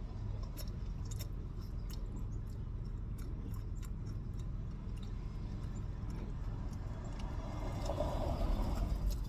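Someone chewing and biting food close to the microphone, with scattered small crunchy clicks, over a steady low rumble. Near the end a louder rushing swell rises and fades.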